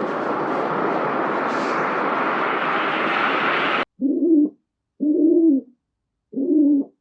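A steady hissing noise that cuts off abruptly a little over halfway through, followed by three short, evenly spaced hooting bird calls.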